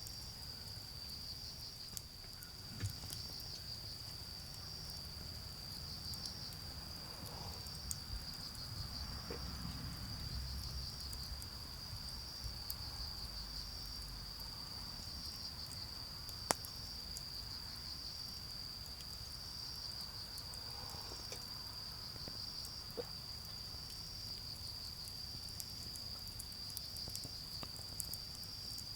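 Autumn crickets calling steadily in a high pitch, with a second pulsing chirp repeating about once a second. Sparse crackles and one sharp pop from a charcoal fire, over a low rumble of distant traffic.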